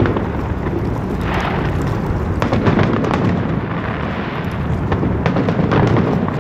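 A fireworks display: shells bursting one after another in quick succession, with dense crackling over a continuous low rumble of booms.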